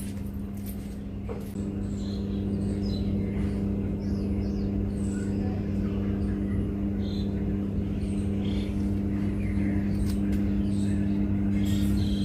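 A steady low hum, growing louder about a second and a half in, with faint short high chirps scattered over it.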